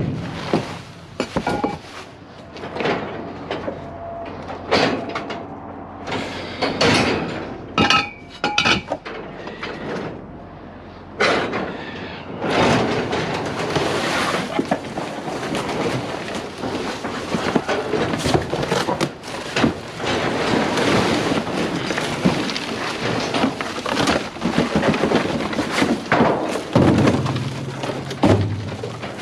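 Pieces of scrap metal knocking and clanking together as they are handled and tossed, with a run of separate sharp clanks. About twelve seconds in a dense rushing noise of wind on the microphone sets in, with more clanks through it.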